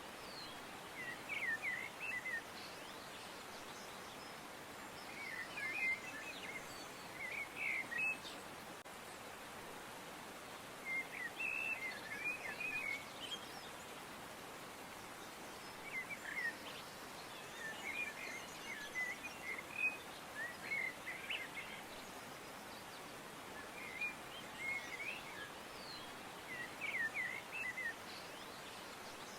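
Songbirds chirping in short bursts of quick high twittering every few seconds, over a steady hiss of outdoor background noise.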